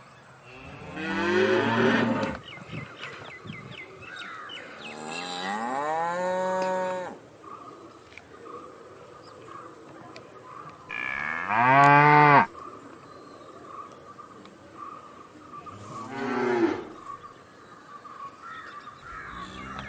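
A bull mooing four times, long drawn-out calls with a few seconds between them, the third the loudest. A steady high insect buzz runs behind.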